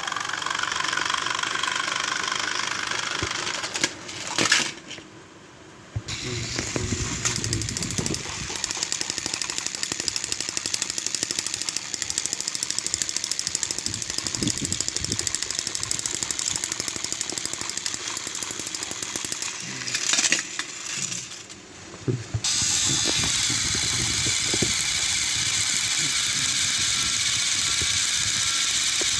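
Battery-powered Thomas & Friends toy train engines running, their small geared motors giving a steady, fast-rattling whir. The sound drops away briefly twice, about five seconds in and again after about twenty seconds.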